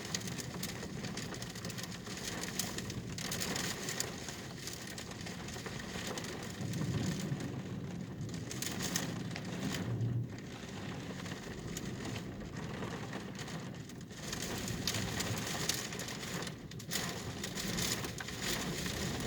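Storm wind gusting, with rain: an uneven, rushing noise that swells and dips, speckled with faint crackles.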